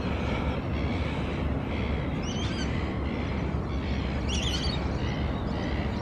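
Two short bird calls, about two seconds apart, over a steady low outdoor rumble.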